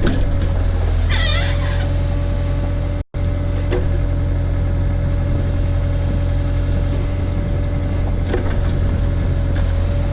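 Case/Davis D100 backhoe's engine running steadily while digging, with a constant low hum and a steady whine on top. A brief wavering squeal comes about a second in, and the sound drops out for an instant about three seconds in.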